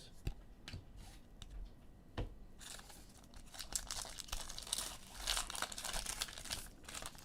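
Foil trading-card pack wrapper crinkling and tearing as it is opened, after a few light clicks of cards being handled.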